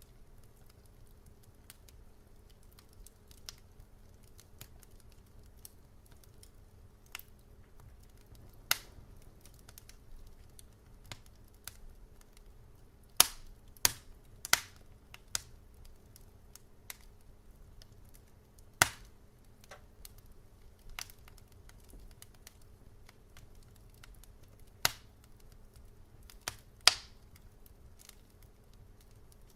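Wood fire crackling in a fireplace: scattered sharp pops and snaps over a low steady background, with a cluster of louder pops about halfway through and a few more near the end.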